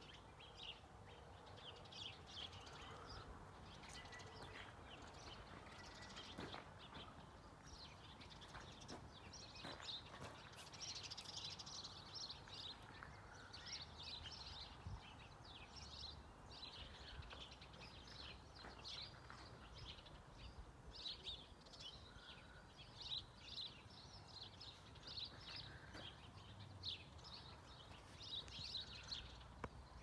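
Faint chirping of small birds: many short, high chirps in quick runs over a soft low background noise.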